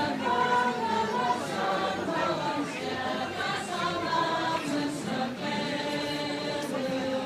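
A group of people singing together, many voices holding and changing notes at once without instruments.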